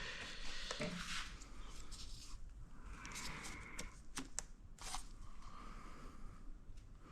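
Faint handling noises as plastic airbox parts and hoses are worked loose: rustling and scraping, with a few sharp clicks about four to five seconds in.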